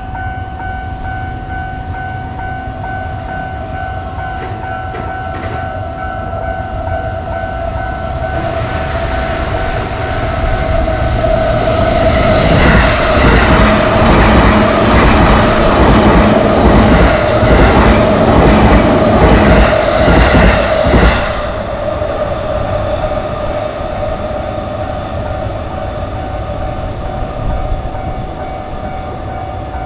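A railroad crossing warning bell rings throughout while a train approaches and passes, its wheels clattering over the rail joints. The train noise builds over several seconds, is loudest for about eight seconds and stops abruptly about two-thirds of the way through, leaving the crossing bell ringing.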